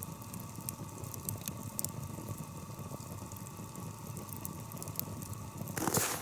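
Campfire crackling with sharp scattered pops, while water in a pot over the fire hisses and bubbles toward the boil with a faint steady singing tone. Near the end the tone stops and a louder rustling handling noise takes over.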